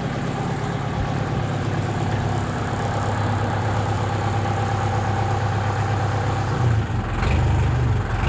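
Tractor engine idling steadily, its low hum briefly getting heavier and a little louder about seven seconds in before settling back.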